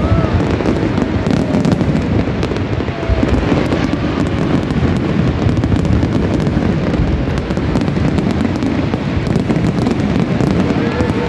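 Aerial fireworks display at full intensity: shells bursting in rapid, overlapping succession, giving a continuous deep rumble shot through with sharp crackling.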